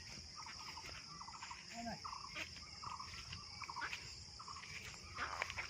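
Faint, steady high-pitched insect drone, typical of crickets, with a few short, faint calls scattered through it.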